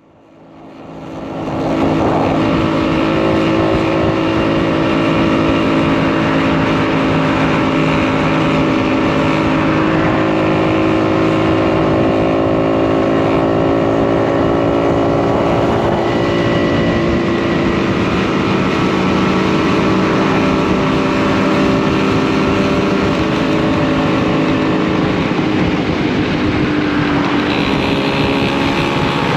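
Post-war German two-stroke motorcycle engine running under way, its pitch rising and falling a little a few times with the throttle. The sound fades in over the first two seconds, then stays steady and loud.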